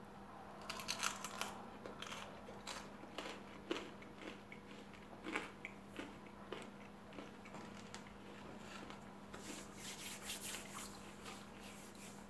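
A mouthful of crusty home-baked bread being chewed: faint, irregular crunches of the dark crust, with a quicker run of crunches near the end. A faint steady hum runs underneath.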